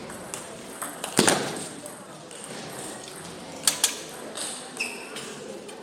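Table tennis ball clicking off rackets and the table in a few sharp, irregular hits, the loudest about a second in, with a couple of short high squeaks near the end.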